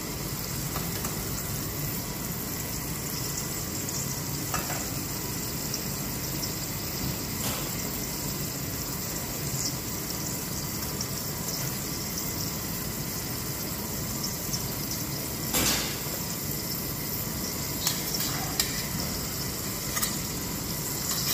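Bacon, cut button mushrooms and shallots frying in bacon fat in a pan, a steady sizzle, with a few light knocks of a utensil on the pan, the loudest about three-quarters of the way through.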